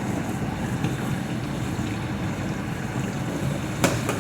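Steady whooshing run noise of a household appliance, with one sharp click near the end.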